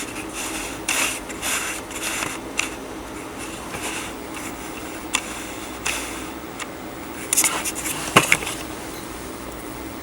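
Hand work on a scooter engine: scattered scrapes, rustles and light metallic clicks of parts and tools being handled, with a sharp click about eight seconds in.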